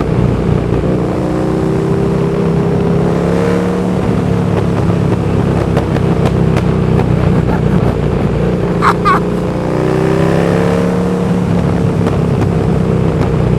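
KTM 1290 Super Duke R's 1300cc twin-cylinder engine running through a de-catted link pipe and slip-on silencer, abnormally loud, like there is no exhaust at all. It pulls up through the revs about a second in and again about ten seconds in.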